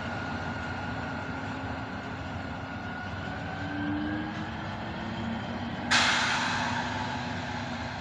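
V100 diesel-hydraulic locomotive running, with a steady mechanical whine over the engine noise. About six seconds in comes a sudden loud hiss, the loudest thing here, fading over the next two seconds.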